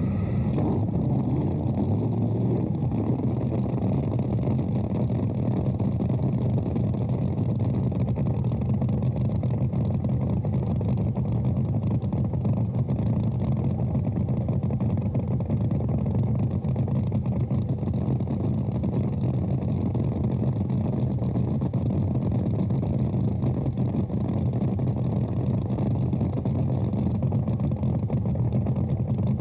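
Drag boat engine idling, a steady deep rumble whose pitch does not change.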